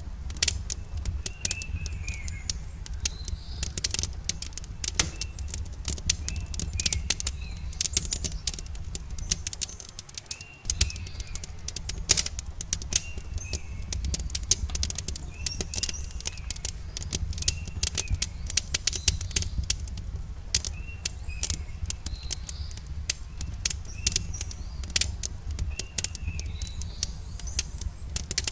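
Wood fire crackling with frequent sharp pops over a steady low rumble, while small birds chirp again and again. The low rumble drops out for a moment about ten seconds in.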